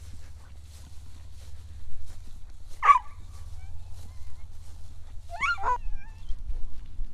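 Two short, high animal calls: a sharp single call about three seconds in, then a quick pair of gliding calls a little over five seconds in, over a steady low hum.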